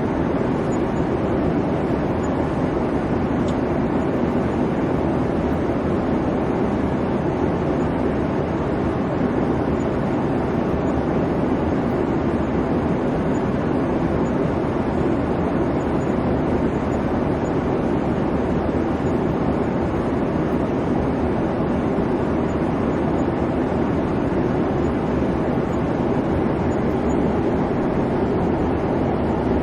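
Steady airplane cabin noise: the constant low rush and hum of jet engines and airflow heard from inside the cabin, with no changes or separate events.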